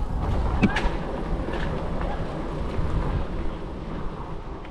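Steady low rumble of wind on the microphone and tyre noise from a moving e-bike, with a few faint clicks.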